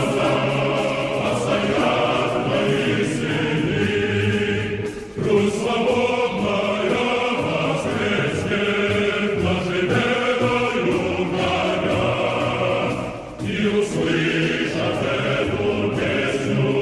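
Choir singing a Russian military march song in sustained phrases, with a short break between phrases about five seconds in and again about thirteen seconds in.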